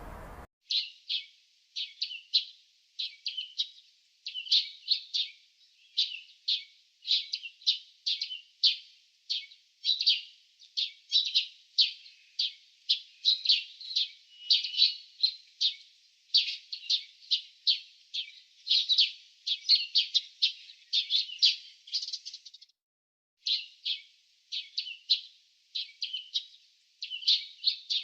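Small songbirds chirping in a quick, steady series of short, high chirps, about two or three a second, with a brief break about 23 seconds in.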